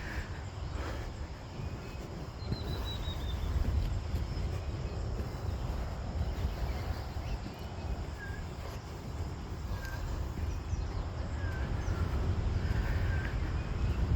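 Forest birds giving scattered short chirps: one quick falling whistle about two and a half seconds in, then a few brief chirps in the second half. A steady low rumble lies on the microphone throughout.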